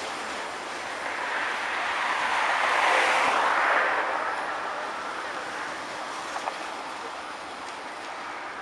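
Freight train's covered hopper cars rolling past on the rails in a steady rush of wheel noise. A louder rush swells from about a second in, peaks near three seconds and fades away, with two small clicks later on.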